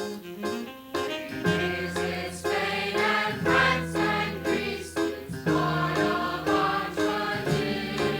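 Gospel vocal group singing in harmony with band accompaniment. A fuller bass-backed sound comes in about a second and a half in.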